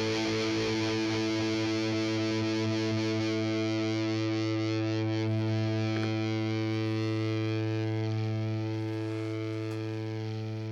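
Music: a distorted electric guitar chord held and ringing out, fading slowly near the end.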